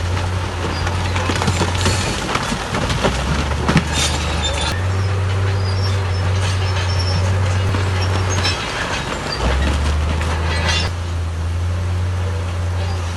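Crawler bulldozer's diesel engine working under load, its low note stepping down and back up several times, with metallic squealing and clanking from the machine over it.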